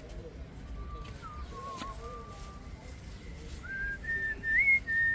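A person whistling a slow tune in long held notes, starting lower and stepping up in pitch, getting louder near the end.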